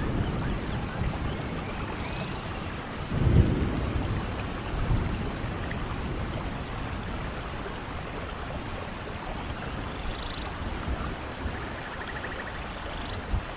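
Steady rain falling, with a low rumble of thunder about three seconds in.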